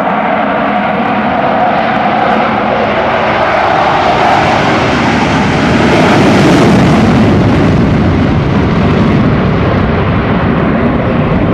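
US Navy Blue Angels F/A-18 Hornet jets taking off in afterburner: a loud, steady jet roar that swells to its peak about six seconds in as they pass, then eases off.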